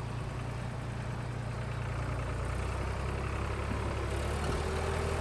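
Sonalika tractor's diesel engine running steadily at low revs, growing slowly louder.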